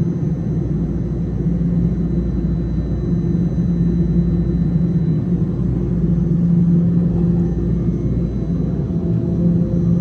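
Toronto subway train on Line 1 running at the platform: a steady, loud rumble with a constant low hum.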